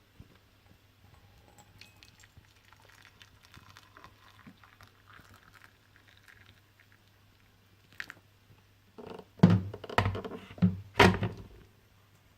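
Faint rustling, then a sharp click and a short run of loud thumps and knocks near the end.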